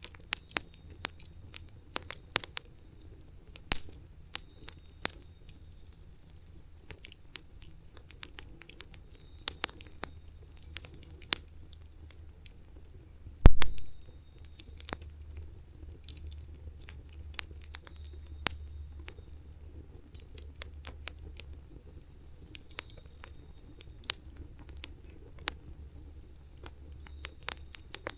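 Wood fire crackling, with irregular sharp snaps and pops over a low steady rumble. One heavy low thump comes about halfway through.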